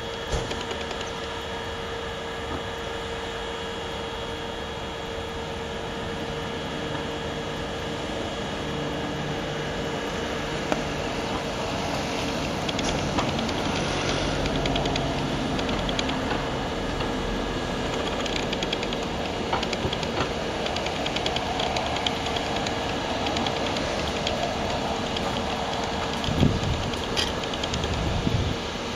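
Freight train running on the tracks: a steady mechanical rumble and hum that grows a little louder towards the middle, with scattered sharp clicks and a few low thumps near the end.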